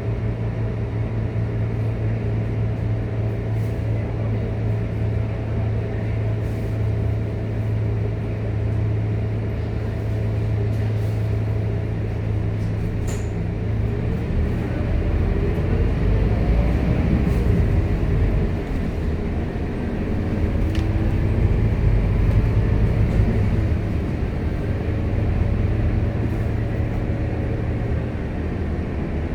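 Scania K230UB city bus engine running steadily at low revs, then pulling away: from about halfway its note rises and falls several times as the bus accelerates through the gears. A few light clicks and rattles are heard along the way.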